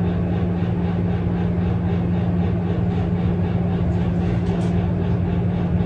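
Steady low mechanical hum holding one constant pitch, with an even rumble beneath it.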